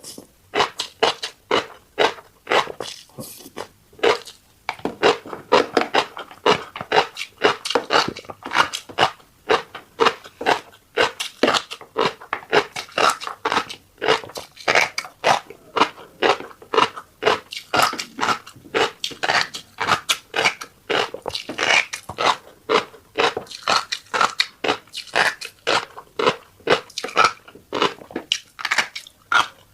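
Close-miked chewing of fish roe, a rapid run of crisp crunches and pops, a few a second, as the small eggs burst between the teeth.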